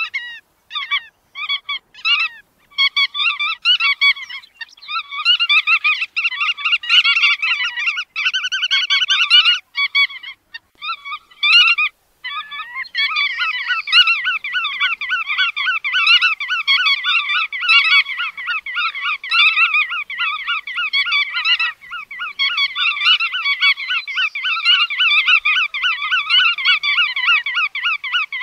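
Bar-tailed godwit calls: short calls repeated quickly, spaced with brief gaps at first, then from about halfway an unbroken, dense run of rapid calls.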